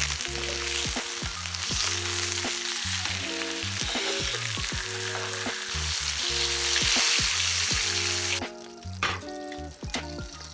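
Thick beef rib steak sizzling over a wood campfire, a dense crackling hiss that stops suddenly near the end. Background music plays throughout.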